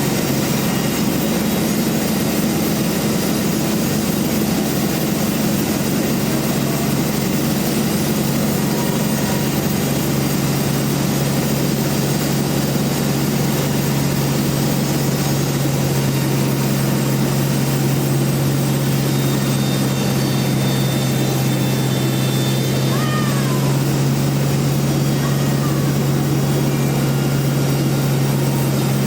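Bandsaw mill running with a steady, unbroken low drone.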